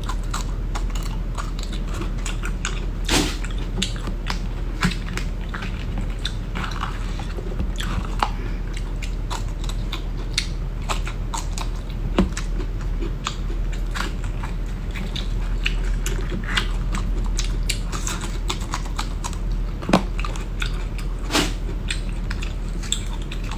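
Close-up chewing and biting of tender winter bamboo shoot, with many short crisp clicks scattered irregularly throughout, over a steady low hum.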